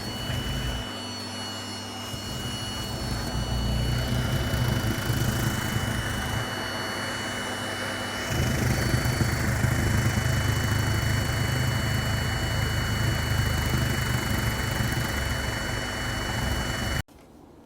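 Vacuum cleaner running steadily, sucking up hair, with a thin high whine over the motor drone. It gets louder and fuller about eight seconds in, then cuts off abruptly just before the end.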